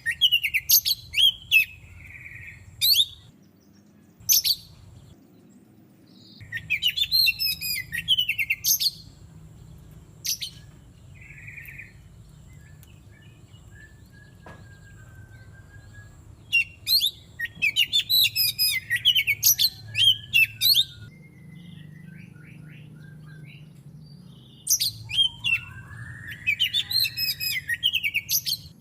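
Oriental magpie-robin (kacer) singing: loud phrases of rapid, high chirping notes, repeated about every few seconds, with quieter scattered chirps in the pauses between.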